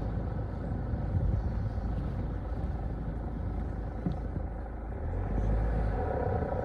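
A car being driven: steady low engine and road rumble with a few light knocks.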